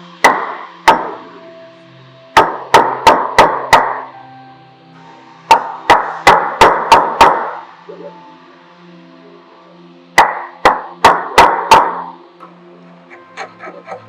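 Mallet striking a chisel to chop out the waste wood of a tee halving joint. Two sharp blows, then three quick runs of about five or six blows each with short pauses between.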